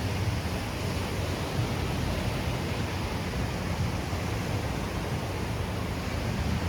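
Steady beach ambience: an even rush of surf and wind on the shore with a low, fluttering rumble underneath.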